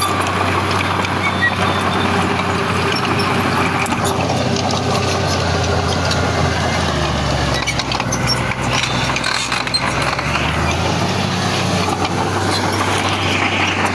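Heavy diesel earthmoving engine running under steady load. Its low hum drops lower for a few seconds midway, with some clatter over it.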